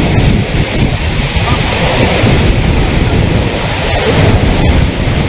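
Loud, steady rush of flowing water, with wind buffeting the microphone.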